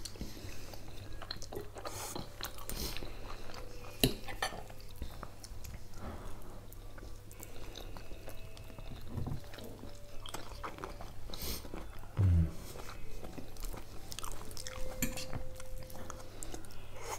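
Close-miked chewing and biting of two people eating mashed potatoes, meat cutlets and cherry tomatoes, with forks clicking on the plate. A short, loud low thump comes about twelve seconds in, over a steady low hum.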